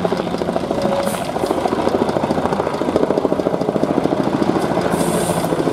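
Diesel truck engine running, with a fast, even beat of firing pulses. A short hiss comes about five seconds in.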